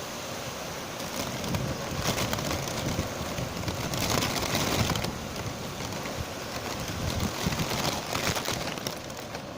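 Strong wind blowing in gusts, swelling loudest about two seconds in and again around four to five seconds, then easing a little near the end.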